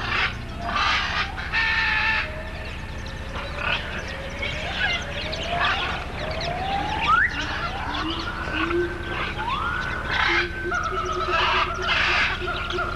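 Bird calls: a string of rising calls about a second apart, with harsh cackling bursts near the start and again near the end.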